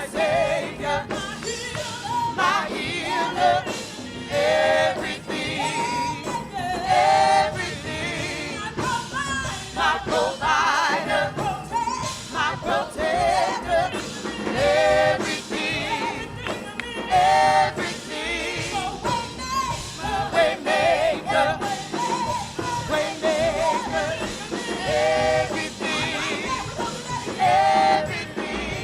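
Gospel singing with vibrato over live instrumental accompaniment, a worship song in a church service.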